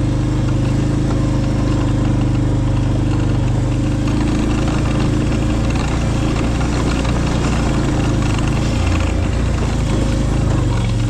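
An engine idling steadily with an even low hum, its pitch holding constant and shifting slightly about nine seconds in.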